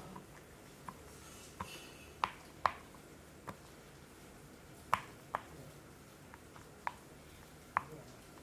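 A series of short, sharp pops, about a dozen at irregular intervals, each with a brief hollow ring.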